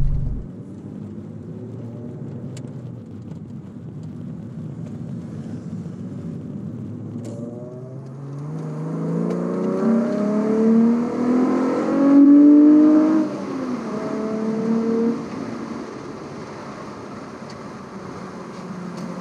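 Volkswagen Corrado's VR6 engine heard from inside the cabin, cruising steadily at first. About eight seconds in it pulls up through the gears, its pitch rising and dropping back with each upshift, loudest around two-thirds of the way through, then eases back to a steady cruise.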